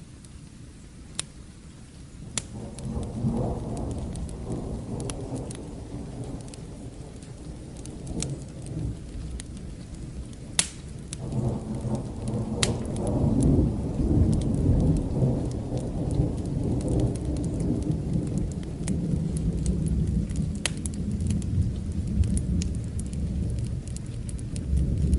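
Rolling thunder over steady rain: a deep rumble builds about two and a half seconds in and swells in long waves, loudest around the middle. Scattered sharp clicks sound above the hiss of the rain.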